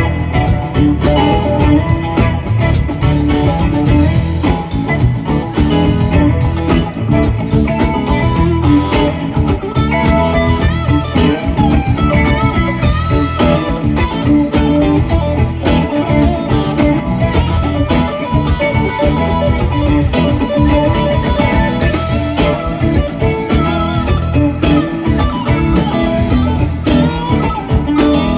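Rock band playing an instrumental jam with no singing: electric guitar lead over bass and drums, continuous and loud.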